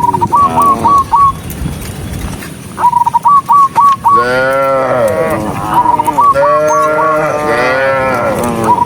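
Cows mooing, several long calls overlapping and bending up and down in pitch. A short run of about five quick high chirps repeats about every three seconds over them.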